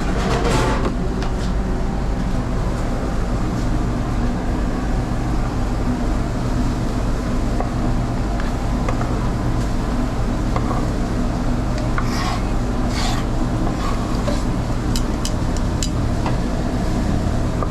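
Knife chopping through grilled teriyaki chicken on a cutting board, with scattered sharp knocks of the blade, several close together in the last few seconds, over a steady low machine hum.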